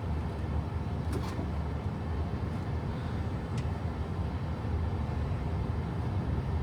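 Strong winter wind gusting and buffeting the microphone, a steady low rumble with a faint hiss above it.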